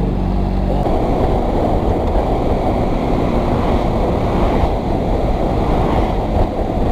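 Motorcycle engine running with a steady note for about the first second, then heavy wind noise rushing over the helmet-mounted microphone covers it as the bike rides on.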